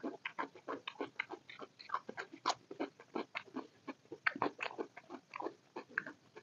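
Close-miked wet chewing and lip smacking from a person eating curry and rice: an irregular run of short smacks and clicks, several a second.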